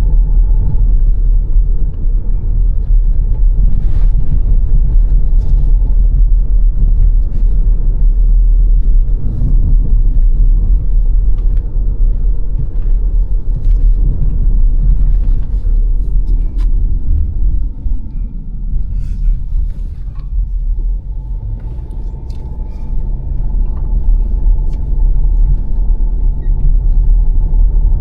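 A car driving on the road: a steady, heavy low rumble of road and engine noise. The rumble eases off for a few seconds past the middle, then builds back up, with a few faint ticks scattered through it.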